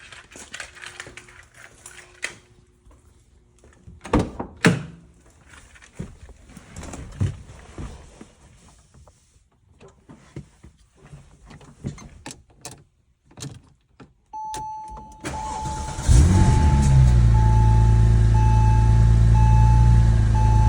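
Scattered clicks and knocks, then a repeating chime about 14 seconds in. Around 15 seconds the starter cranks briefly, and a 2002 Porsche 911 Turbo's twin-turbo 3.6-litre flat-six fires on a cold start and settles into a loud, steady idle.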